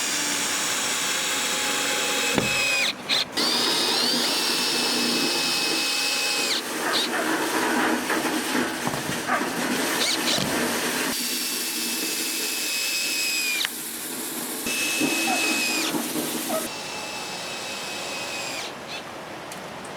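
Power drill running in several bursts of a few seconds each, a steady high whine that rises as it starts and cuts off at the end of each run.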